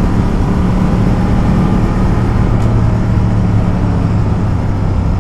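Ducati Multistrada motorcycle cruising at a steady speed on a main road: an even engine drone with low wind rumble.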